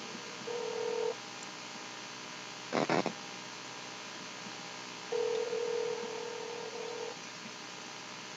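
Telephone ringback tone from an outgoing call, heard through the phone: a steady hum-like tone that sounds briefly and then again for about two seconds, the line ringing while the call waits to be answered. A short, loud noise burst comes about three seconds in.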